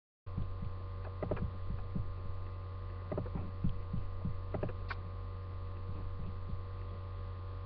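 Steady low electrical hum with faint steady higher tones above it, and a scatter of soft knocks and bumps during the first five seconds or so.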